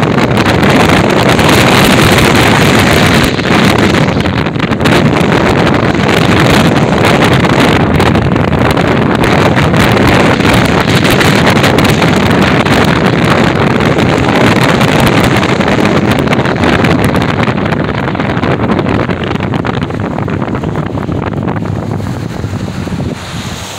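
Loud, steady wind buffeting the microphone of a moving vehicle, with road and vehicle noise underneath, easing slightly near the end.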